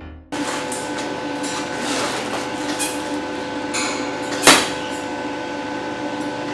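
A steady machine hum with several fixed pitches, light handling clicks and rustles, and one sharp knock about four and a half seconds in.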